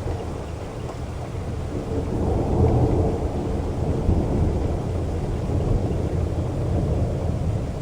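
Heavy rain with a low, rolling rumble of thunder that builds about two to four seconds in.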